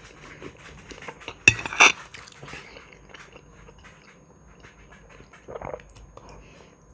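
A person chewing and smacking their lips, heard up close, while eating mashed potatoes with a fork. A sharp click comes about one and a half seconds in.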